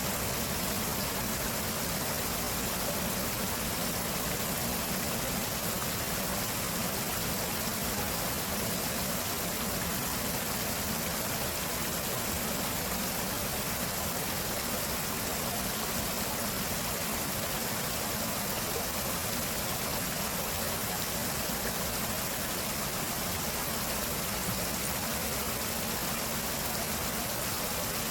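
Running water of a stream, a steady even rush with no change or separate sounds.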